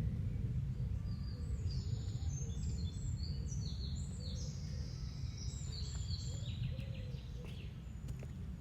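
Small bird singing a run of quick, high twittering notes for several seconds over a steady low rumble.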